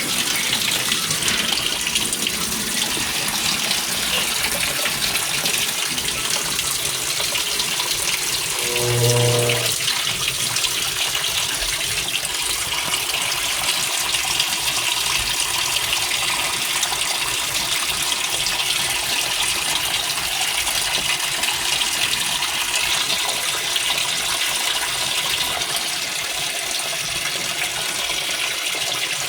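GE Spacemaker GUD24ESSM1WW washer filling its tub with cold water for the wash: a steady hiss of water flowing in through the fill valve. A brief low tone sounds about nine seconds in.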